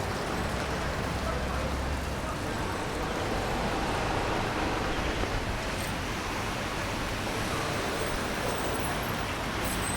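City street ambience: steady traffic running past on wet roads, with people's voices in the background.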